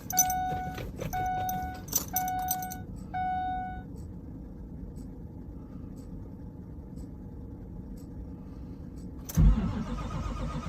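Ford 6.0-litre diesel truck being cold-started at about minus 20 after two weeks unplugged. A dashboard chime beeps about once a second, with a couple of sharp key clicks, while the key is cycled for the glow plugs. About 9 seconds in, the starter suddenly cranks the cold engine loudly.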